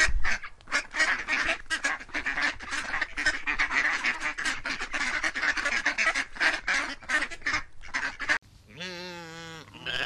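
A flock of white domestic geese honking, many calls overlapping, for about eight seconds. It cuts off suddenly, and a sheep gives one long wavering bleat near the end.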